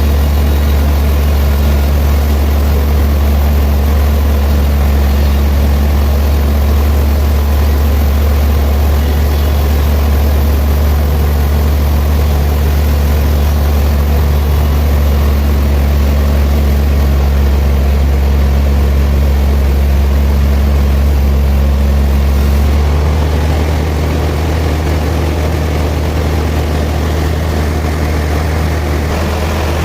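Sawmill machinery running with a steady deep hum and a continuous noisy whir. About three quarters of the way through the sound changes and gets a little quieter, as the machine's load shifts.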